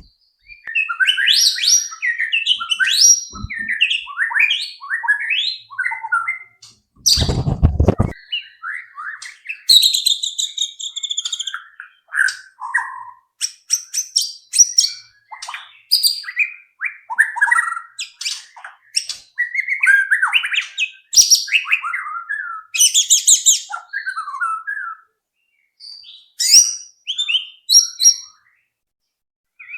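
White-rumped shama (murai batu) song: a long, varied run of rapid whistled phrases, trills and sharp chirps, sung as a lure to set other shamas singing. A brief burst of noise breaks in about seven seconds in.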